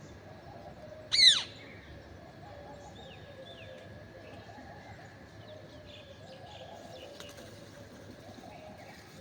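A green parrot gives one short, loud, harsh call about a second in, sweeping down in pitch. Softer bird calls, low coos and a few faint chirps, carry on in the background.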